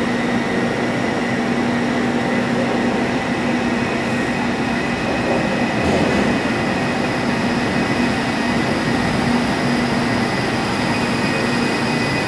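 Rapid KL Kelana Jaya line light-rail train pulling into the station beside a second train that stands at the platform: a steady electric hum with a constant tone running through it.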